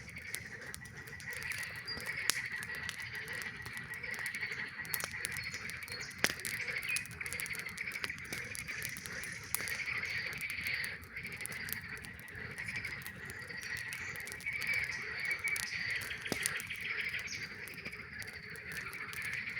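A chorus of many frogs calling continuously in rapid pulsing trills that overlap into one steady din. Scattered sharp pops and crackles from a campfire punctuate it.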